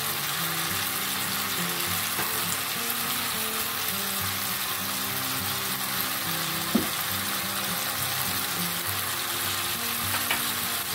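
Chopped tomatoes, onions and spices sizzling in a pan on a gas burner, a steady hiss, with soft background music and a single light tap about two-thirds of the way through.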